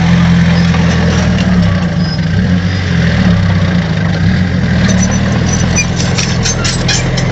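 Heavy earthmoving machine's diesel engine running steadily with a low hum. From about five seconds in, a quick series of sharp clicks and clanks sounds over it.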